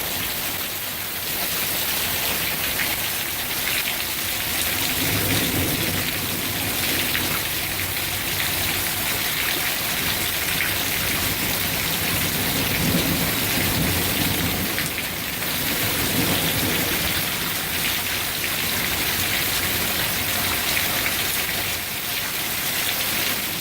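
Heavy rain pouring steadily during a thunderstorm, with low rumbles of thunder swelling up a few times.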